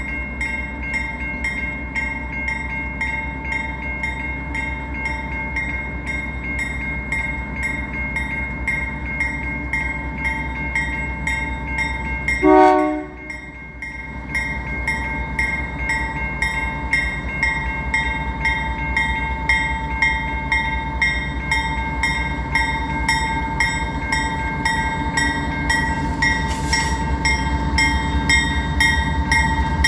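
Railroad crossing bells ringing over the low rumble of a slow freight train led by two GE C44-9W (Dash 9) diesel locomotives. About twelve seconds in, the lead unit gives a short blast on its Nathan K3L horn, whose third chime is dead.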